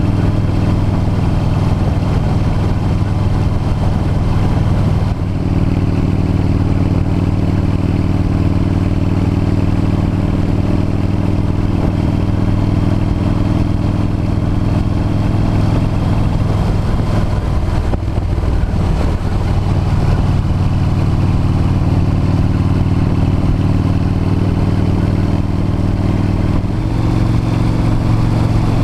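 V-twin motorcycle engine running under way, steady with a noisy rush over it. Its note steps up about five seconds in, eases off in the middle, then picks up again, and changes once more near the end.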